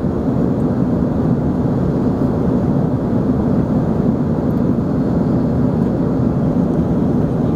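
Steady cabin roar of an Embraer ERJ-145 regional jet in flight, from its two rear-mounted turbofan engines and the airflow over the fuselage, heard from inside the cabin.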